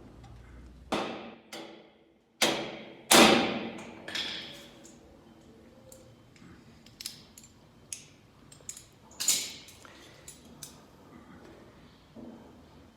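Sharp metallic knocks and clanks of hand tools on steel, each with a short ring. There are about five strikes in the first four seconds, the loudest about three seconds in, then lighter clicks and taps.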